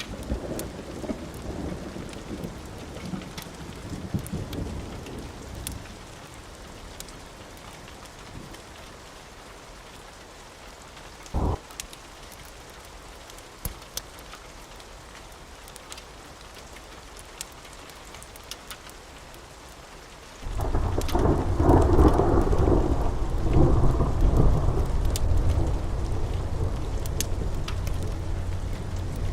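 Steady rain with thunder: a low rumble dies away over the first few seconds, then a loud peal of thunder breaks about two-thirds of the way through and keeps rumbling. Fireplace crackles tick sharply through the rain, and there is one brief thud near the middle.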